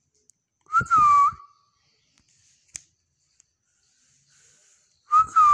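Two short whistled notes about four seconds apart, each dipping slightly in pitch and flicking up at the end.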